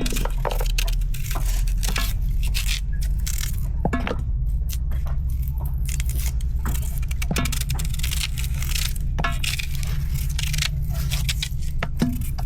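Irregular clinks, taps and scrapes of small hard objects being handled, over a steady low rumble.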